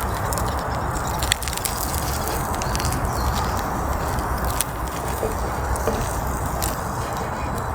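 Wood campfire crackling: scattered sharp pops and snaps over a steady rushing noise.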